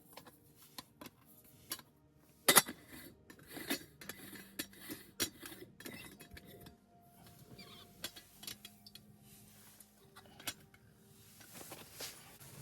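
Camping cookware and metal utensils being handled: scattered clinks and knocks, the loudest one about two and a half seconds in.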